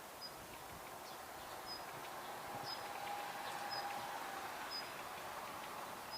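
Daurian redstart calling: a short, thin, high note repeated about once a second, with faint ticking notes between, over a steady background hum.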